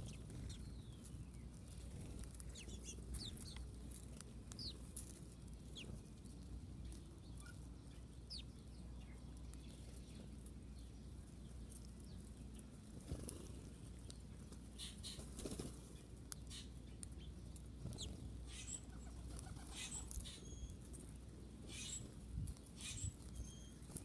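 Birds: scattered wing flutters and small clicks, with short high chirps that come more often in the last third, over a faint steady low hum.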